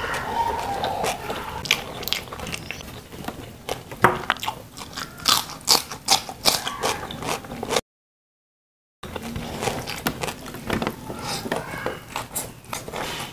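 Close-up mouth sounds of a person eating: wet chewing and sharp crunching bites of stir-fried green beans and rice eaten by hand. The sound drops out completely for about a second midway.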